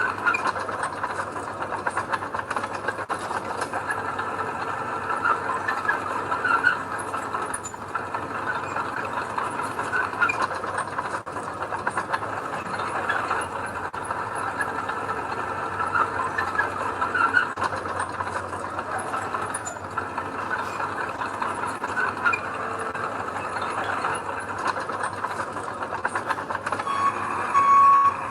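Earthmoving machinery running steadily with frequent small metallic squeaks and clicks. A reversing alarm starts beeping near the end.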